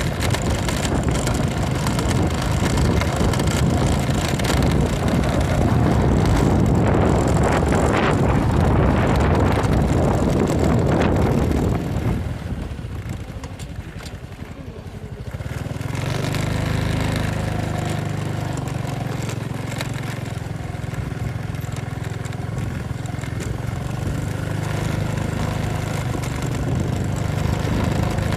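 Motorcycle riding with its engine running, heavy wind and road noise on the microphone. About twelve seconds in the noise drops away briefly. From about sixteen seconds on, a steady low engine hum stands out.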